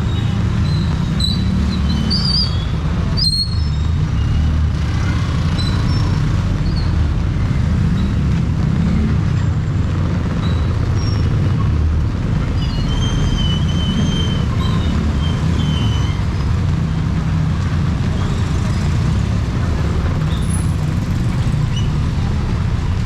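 Steady low rumble of street traffic, with a few faint high chirps and squeaks over it.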